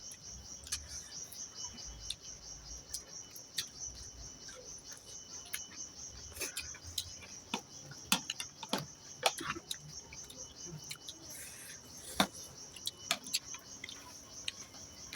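Crickets trill steadily in the background, with scattered soft clicks and smacks of someone eating, loudest about twelve seconds in.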